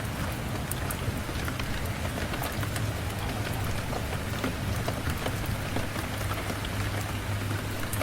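Steady rain falling, with scattered sharp ticks and a low, even rumble underneath.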